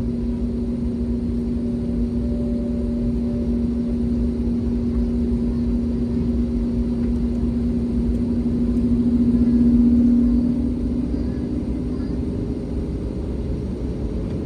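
Airbus A321neo engines running steadily, heard inside the cabin as a constant hum over a low rumble, swelling briefly about two-thirds through, as the aircraft gets ready for takeoff.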